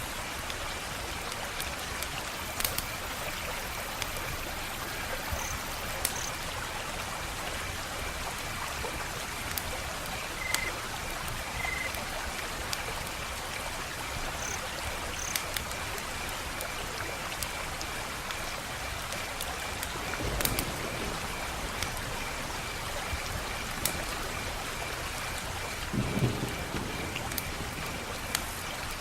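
Wood fire crackling: a steady hiss scattered with sharp pops, and two heavier low thumps about twenty and twenty-six seconds in.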